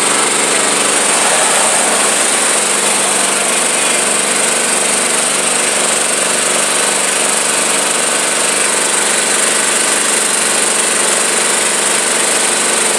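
A tractor engine runs steadily at a low parade pace, heard from on board.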